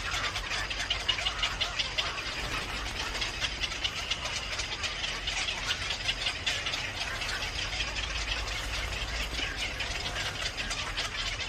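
Birds chirping rapidly: a dense, continuous run of short high notes, many a second.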